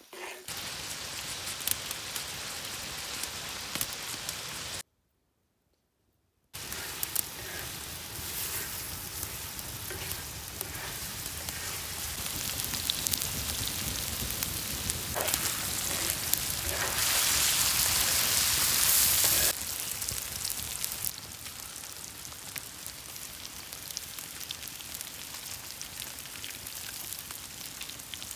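Beef chunks and onions sizzling in hot oil in a wide, shallow metal pan over a fire, with small pops and scrapes as a wooden spatula stirs them. The sound cuts out completely for about two seconds around five seconds in, and the sizzle is loudest a little past the middle.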